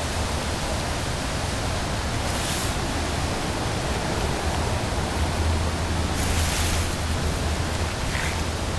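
Steady rushing noise of a fast-flowing, rain-swollen river, with a low rumble underneath and a brighter hiss swelling briefly twice.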